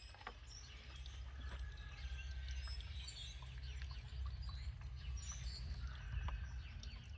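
A steady low rumble with birds chirping faintly.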